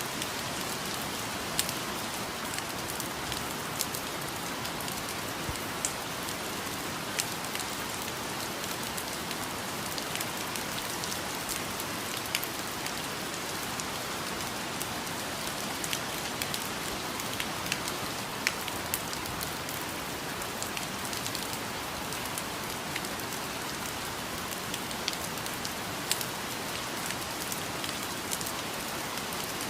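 Steady rain falling, an even hiss with scattered louder drops striking every second or so.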